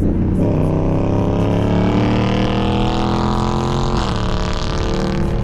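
Car engine accelerating hard, its pitch climbing steadily for about three and a half seconds, then dropping sharply at an upshift about four seconds in and starting to climb again.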